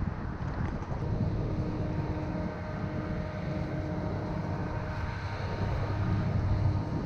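A car driving: the low, steady rumble of engine and road noise, with a faint steady hum above it.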